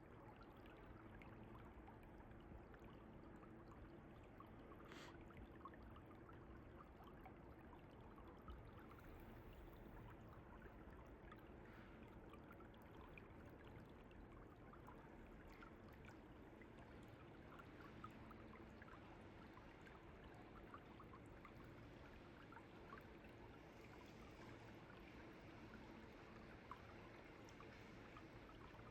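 Faint, steady flowing and trickling of a stream, with many small splashes and gurgles.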